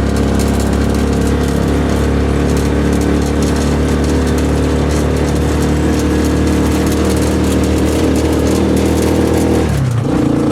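A small motorized passenger buggy's engine runs steadily under way, heard from the passenger seat, with the rattle of a shaky ride. Near the end the engine note drops sharply, then settles at a new steady pitch.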